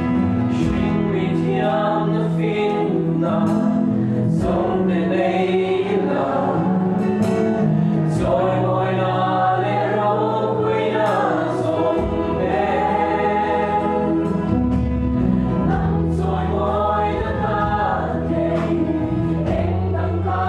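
Christian worship song: several voices singing a melody together over a band, with sustained bass notes and light percussion hits.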